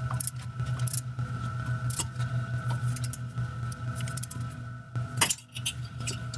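Metal hand tools and hardware clinking and clicking in irregular taps, with one sharper knock about five seconds in, over a steady low hum.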